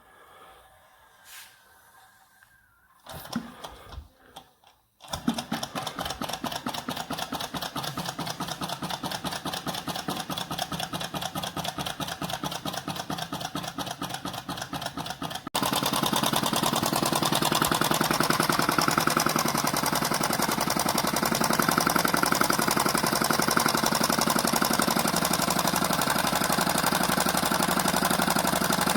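Homemade Stirling hot-air engine built from drink cans running fast, a rapid even mechanical clatter of many beats a second. It starts about five seconds in after a few knocks, and turns abruptly louder about halfway through.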